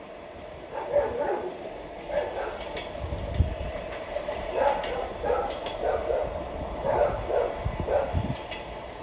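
A passenger train's coaches roll past with a steady low rumble and occasional deep wheel thumps. Over it a dog barks over and over in short, uneven bursts, starting about a second in.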